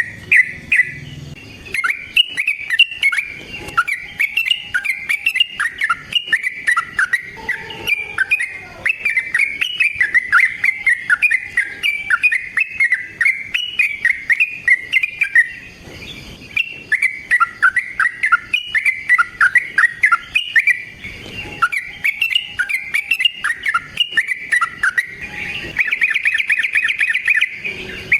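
Yellow-vented bulbul singing: long, unbroken runs of rapid, bubbly chirping notes with only brief pauses, turning to a fast, even trill near the end.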